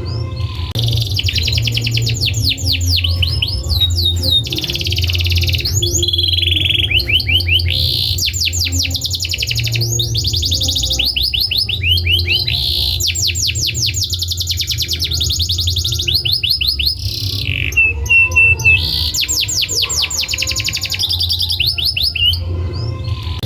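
Domestic canary singing continuously: long rolling trills of rapidly repeated notes, changing from one tour to the next, over a steady low hum.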